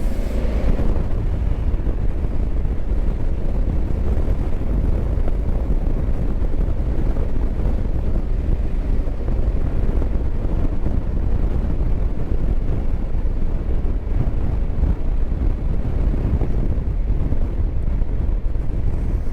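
Wind rushing over a helmet-mounted microphone over the steady low rumble of a Honda Africa Twin motorcycle being ridden at road speed.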